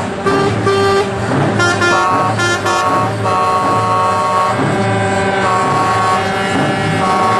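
Truck air horns sounding, a few short blasts at first and then long held notes at changing pitches, over the low steady hum of diesel engines running.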